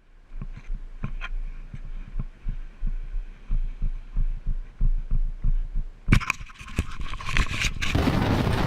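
Low rhythmic thudding, about three thuds a second, over a steady low hum on a motorcycle's onboard camera. About six seconds in it breaks up into sharp knocks, then gives way to loud, steady wind and road noise.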